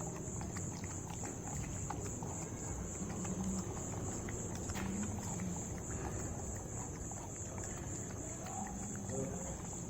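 Steady high-pitched insect chorus, over low background noise with scattered faint clicks.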